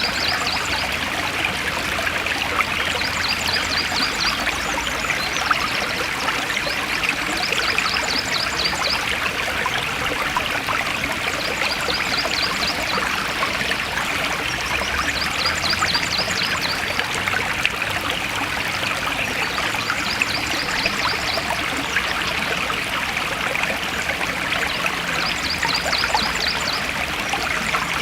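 Forest stream flowing steadily, a continuous rush and trickle of water. A short run of rapid high notes recurs every four to five seconds.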